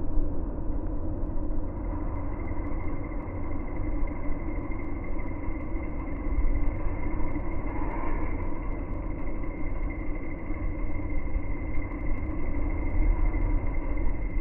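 Suburban electric train rolling into the station: a steady, dense low rumble with a faint steady whine above it.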